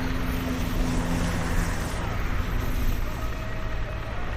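City street traffic: a steady hum and hiss of passing vehicles over a low rumble, with a vehicle's engine running through the first two or three seconds.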